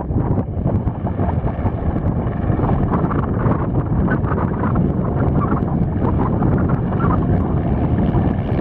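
Eurocopter AS350 Esquilo helicopter flying, its rotor and engine noise mixed with wind buffeting the microphone.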